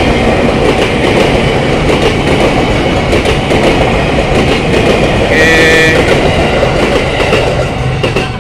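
An electric commuter train (KRL Commuter Line multiple unit) passing close by, its wheels rumbling and clattering over the rail joints. A brief high tone sounds for under a second about five and a half seconds in.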